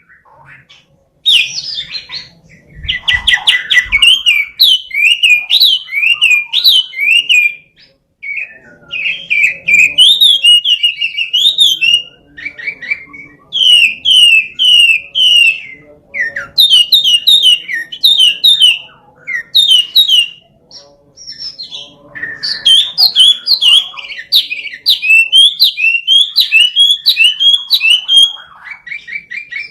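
Chinese hwamei (wambi) singing loudly in phrases of fast repeated whistled notes, in several bouts broken by short pauses.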